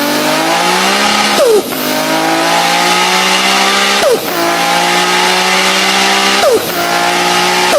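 Six-cylinder car engine and exhaust under hard acceleration, climbing in pitch through each gear with sharp drops at the upshifts, about every two and a half seconds.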